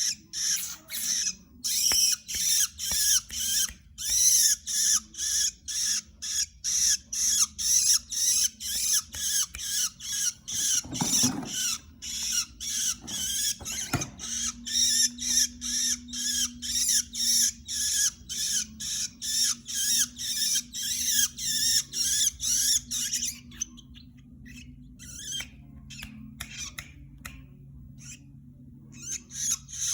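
Long-tailed shrike (cendet) singing a fast chattering song of short, high, sharply repeated notes, several a second, that thins out about three-quarters of the way through and picks up again near the end.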